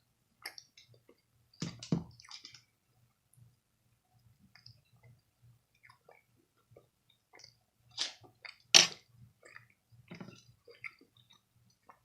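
Close-up chewing of food, wet mouth clicks and smacks coming irregularly, with louder bursts about two seconds in and again around eight to nine seconds in.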